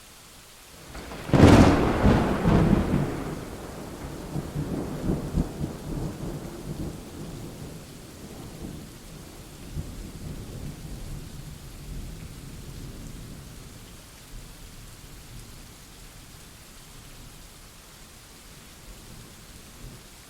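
A thunderclap over steady rain. A sharp crack about a second in is followed by a pulsing rumble that rolls on and slowly dies away over the next fifteen seconds or so.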